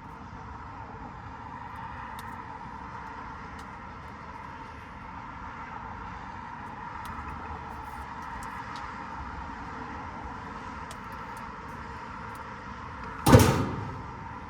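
Steady machinery hum with a few faint clicks, and one loud clunk about 13 seconds in that dies away within half a second.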